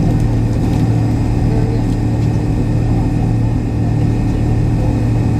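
MD-83 cabin noise heard from a rear seat near the tail-mounted Pratt & Whitney JT8D engines: a steady, unchanging engine drone with a low hum and a higher tone held throughout.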